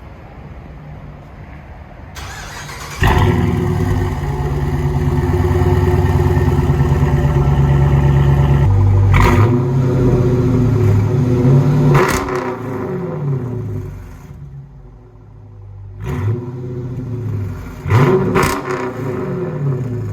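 Chrysler 300 S's 5.7-litre HEMI V8 through Bullet flow mufflers on 2.5-inch pipes with a muffler delete. It jumps to a loud steady run about three seconds in, settles near nine seconds, and is then revved several times, each rev rising and falling.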